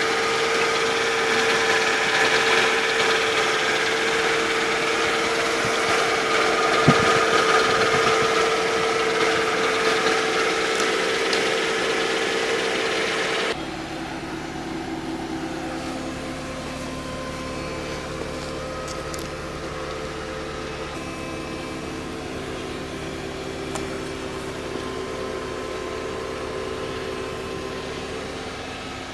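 Mercedes-Benz C240's V6 engine idling steadily. A loud even hiss sits over the idle and cuts off suddenly about halfway through, leaving the quieter steady running.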